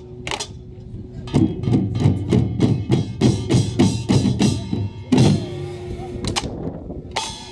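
Korean pungmul percussion: a few sharp strikes, then from about a second and a half in a fast, driving beat of buk drums and kkwaenggwari small gongs. A loud stroke after about five seconds is followed by a ringing tone and a few last strikes.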